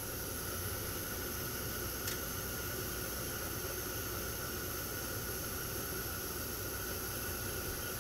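Gas pack unit running in heating mode: a steady rushing noise from its inducer fan and burners, with a faint steady whine and one short click about two seconds in.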